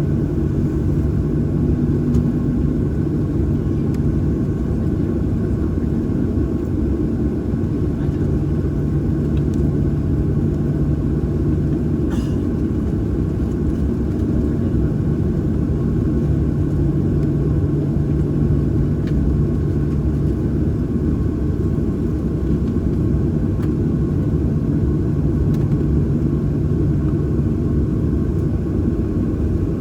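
Cabin noise inside a Boeing 737-800: the steady low rumble of its CFM56-7B engines at ground idle, with a low hum that fades in and out every few seconds.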